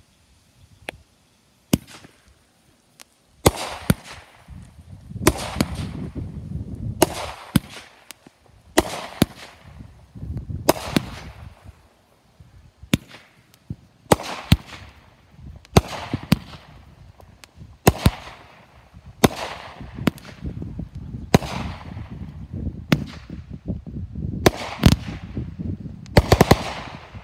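Aerial fireworks going off in quick succession. A few light pops come first, then from a few seconds in there are sharp bangs every second or two, with crackling and hissing between them.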